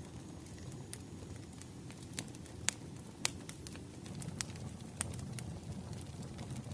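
Firewood burning: a steady low rumble of flames with irregular sharp crackles and pops, two louder pops near the middle.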